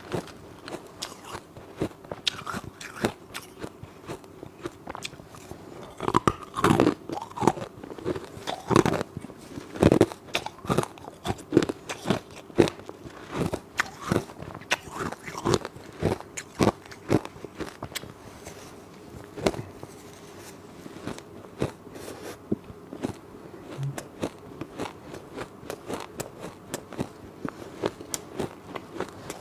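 A person biting and chewing ice, a run of sharp, irregular crunches, loudest and densest through the middle.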